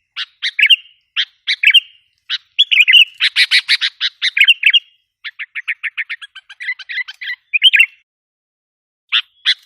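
Sooty-headed bulbul (kutilang) lure call: bursts of short, bubbly chirps broken by fast rattling runs of notes in the middle. Near the end there is a pause of about a second before the calls start again.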